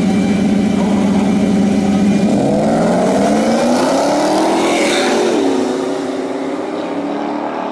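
Drag-racing truck engine running at steady revs, then climbing in pitch for about three seconds as it accelerates. About five seconds in the pitch drops sharply and the sound grows quieter.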